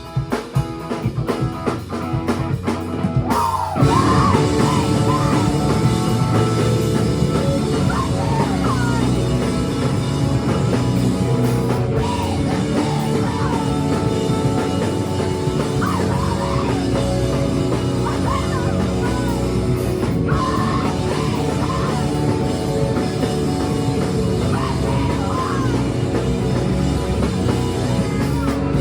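Live rock band playing a song: drum kit hits alone for the first three seconds or so, then the full band with guitar, bass and a singing voice comes in suddenly and plays on steadily.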